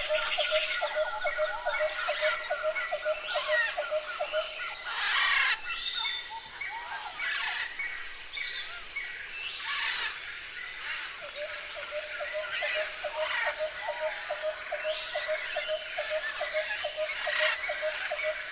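Birds chirping and calling, many overlapping short notes over a steady hiss, with a fast repeated low call note about four to five times a second that drops out a few seconds in and comes back about two-thirds of the way through.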